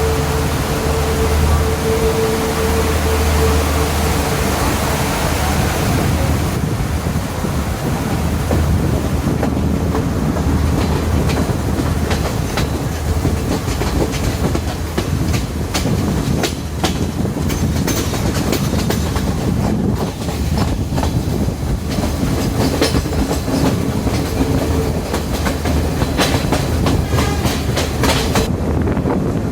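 Diesel multiple-unit express train running along the line, with a steady low rumble and the clickety-clack of its wheels over rail joints. A steady hum in the first few seconds fades out, and from about a third of the way in the wheel clicks come thick and sharp.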